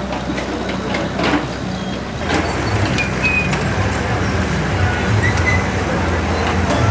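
Heavy vehicle engine running with a steady low rumble that gets louder a little over two seconds in, amid street traffic noise.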